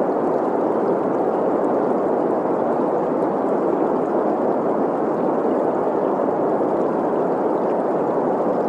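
Steady synthetic green noise, a constant hiss centred in the middle range, blended with the sound of a flowing stream.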